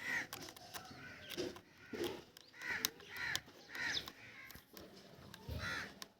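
Crows cawing: a series of short, harsh calls repeating every half second to a second, with a few faint clicks in between.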